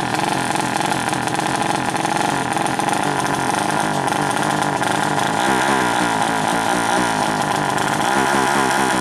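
Motorcycle engine running loudly, then revving up and down in quick repeated blips over the last few seconds.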